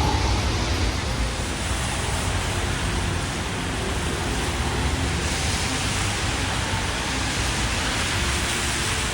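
Steady hiss of a rainy city street: rain and traffic noise on the wet road.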